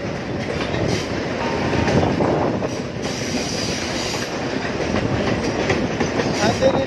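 Mumbai suburban electric local train running on the tracks: a steady rumble of steel wheels on rail, with clacks as the wheels cross the rail joints.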